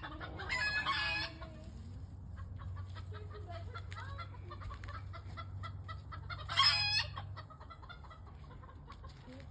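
Chickens clucking, with two loud, high pitched calls: one about half a second in and a shorter one about two-thirds of the way through.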